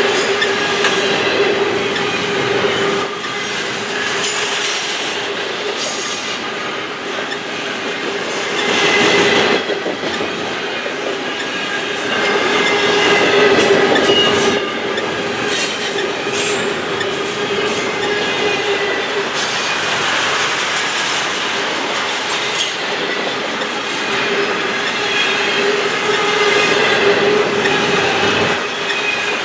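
Double-stack container well cars of a freight train rolling past at track speed: a steady rumble of steel wheels on rail with clacking over the rail joints and a sustained ringing squeal from the wheels. It swells louder twice, about a third and about halfway through.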